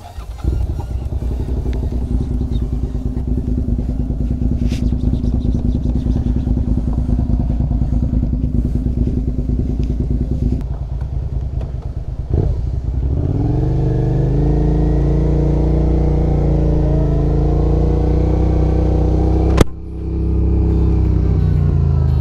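Motorcycle engine running with a steady note. About thirteen seconds in it climbs in pitch and settles into a higher steady note. A sharp click comes near the end, and the engine note dips briefly after it.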